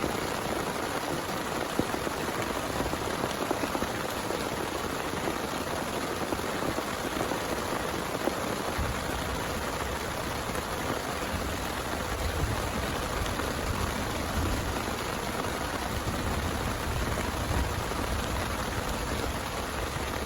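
Heavy rain falling steadily, an even dense patter. A low rumble joins underneath from about nine seconds in.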